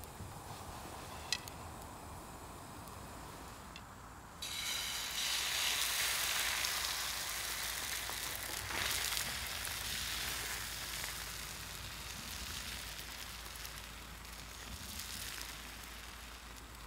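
Egg sizzling in a hot non-stick frying pan on a portable gas stove, starting suddenly about four seconds in and slowly easing off.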